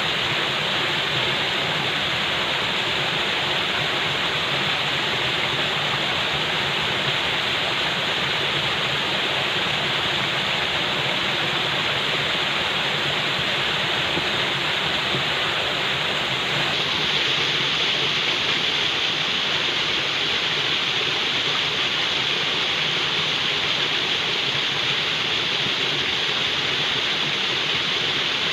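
Falling water: a steady, unbroken rush of water like a waterfall.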